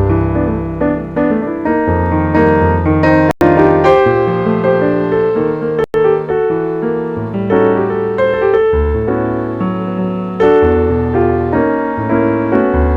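Jazz piano playing chords over low bass notes, with a continuous flow of notes and a couple of split-second dropouts in the sound.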